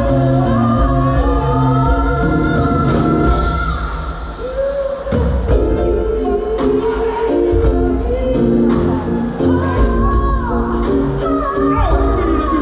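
Live choir singing with a band, in a gospel style, over a steady drum beat and bass, with a short dip in the music about four seconds in.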